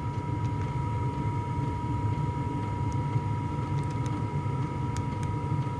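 Diesel air heater running: a steady low hum from its fan and burner, with a thin constant high tone over it.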